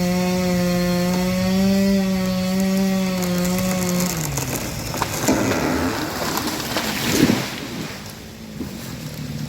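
Chainsaw running at full revs in the back cut of a large tree, then throttled down about four seconds in. Loud cracking and crashing follows, swelling to a peak near the end, as the tree gives way and falls.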